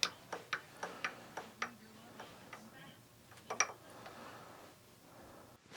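Light, sharp mechanical clicks, about three to four a second for the first second and a half, then two more about three and a half seconds in, with a louder click at the very end.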